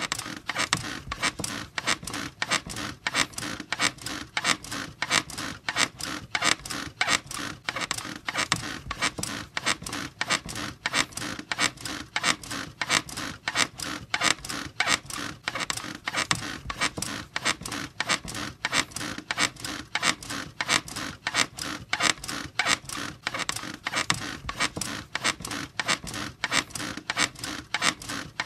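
A squeaky bed creaking over and over in a steady, fast, even rhythm, as if rocked back and forth without pause.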